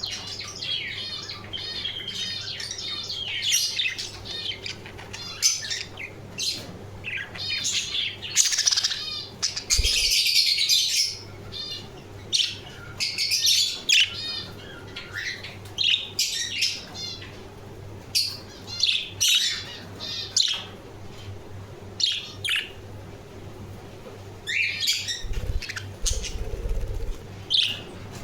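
Budgerigars chattering: quick, repeated bursts of high warbling chirps and squawks, one after another. A faint steady low hum runs beneath.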